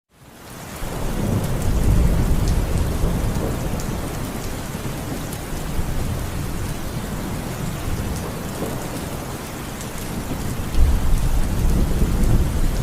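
Steady rain falling with rolling thunder. The sound fades in over the first second or so, and a deep low rumble of thunder swells about a second in and again near the end.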